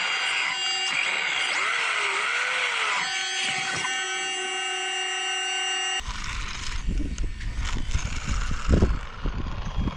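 Electric motor of a 1/4-scale RC motorcycle whining, its pitch rising and falling with the throttle, then holding a steady whine. About six seconds in it gives way abruptly to rough low rumbling and knocks.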